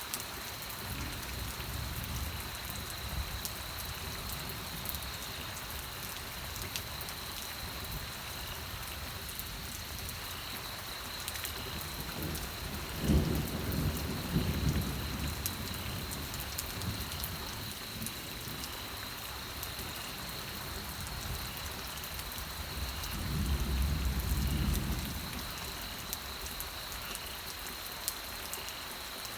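Steady rain falling on a surface, with two low rolls of thunder: one about halfway through and a second about ten seconds later.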